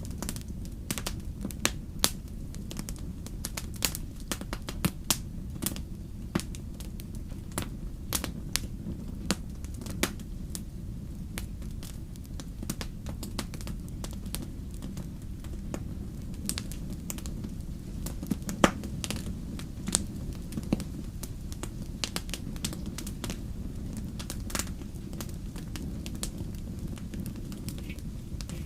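Wood fire crackling and popping: irregular sharp snaps, a few louder ones, over a steady low rumble of the flames.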